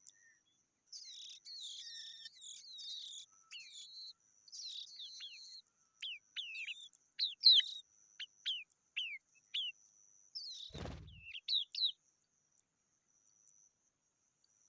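Skylark nestlings chirping: high, thin calls, turning to a run of short downward-sliding notes in the middle. A dull thump about eleven seconds in.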